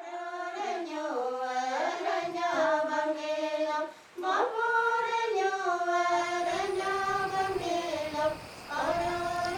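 A high voice singing slow, long-held notes without accompaniment, in three phrases with short breaths about four seconds in and near the end.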